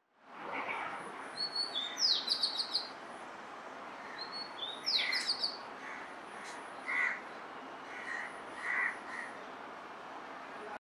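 Birds calling over a steady outdoor background hiss: a quick run of high, repeated chirps about two seconds in and again about five seconds in, then a few scattered, lower calls.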